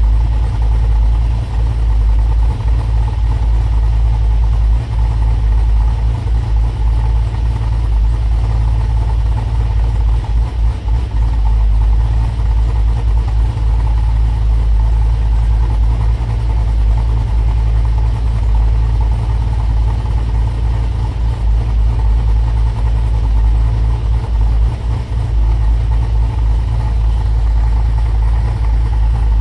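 Pontiac G8's cammed V8 idling steadily through long-tube headers, an X-pipe and Hooker Maxflow mufflers, still warming up after a cold start.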